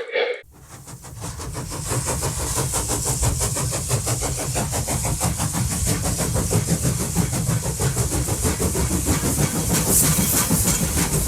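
A train running on track: a steady low rumble with hiss and a fast run of fine clicks, building up over the first two seconds and then holding.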